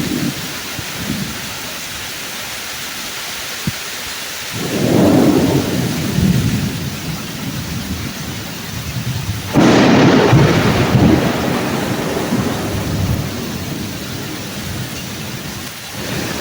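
Thunderstorm with steady heavy rain: a thunder rumble builds about four and a half seconds in, then a sudden loud crack of thunder near ten seconds rolls off into rumbling over the next few seconds.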